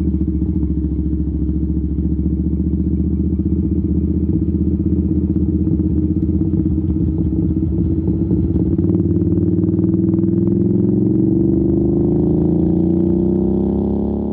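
Royal Enfield Interceptor 650 parallel-twin engine through a Zard aftermarket exhaust, running steadily while riding, then revving up as the motorcycle accelerates in the last few seconds, with the pitch rising smoothly.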